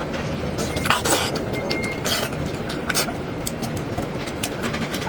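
Scattered short clicks and clinks of tableware during a meal, over a steady low background rumble.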